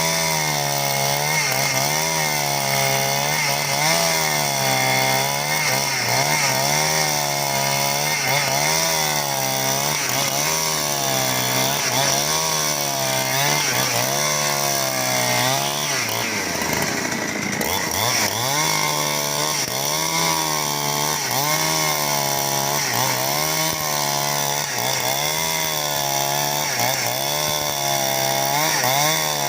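Two-stroke chainsaw running at high revs while cutting timber into beams. The engine pitch dips and rises about once a second as the saw is worked through the wood. About halfway, the pitch drops sharply, as under heavy load, then picks back up.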